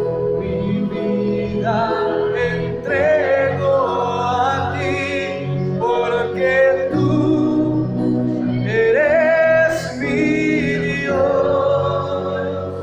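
A Spanish worship song: voices singing a slow melody over steady instrumental accompaniment.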